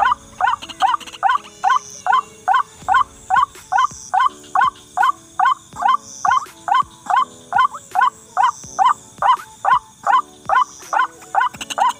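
White-breasted waterhen (ruak-ruak) call: a loud, pitched note repeated about two and a half times a second in an even rhythm.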